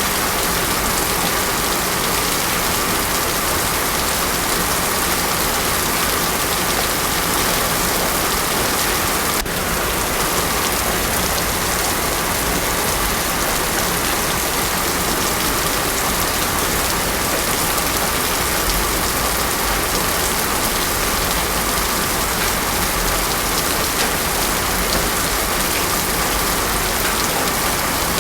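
Heavy rain pouring steadily on a road surface, a dense even hiss with no thunder.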